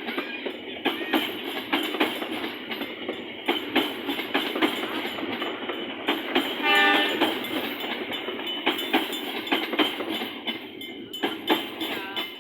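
Commuter Line Bandung Raya train departing, its wheels clacking irregularly over rail joints and points with a steady rolling rumble, and a short horn blast about seven seconds in.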